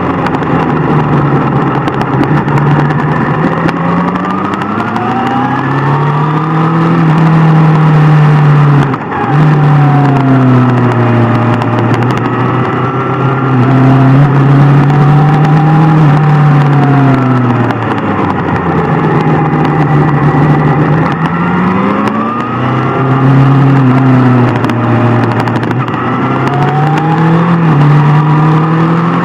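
Sport motorcycle engine running on the road, its pitch climbing and falling every few seconds as the throttle is opened and closed, with a brief drop about nine seconds in.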